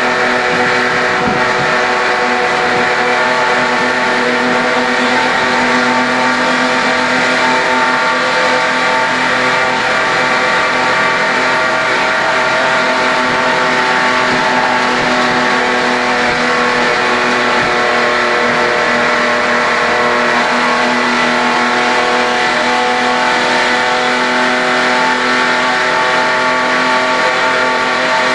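HQ Holden race car's engine running flat out at steady revs, heard from inside the car over the hiss of wind and road noise.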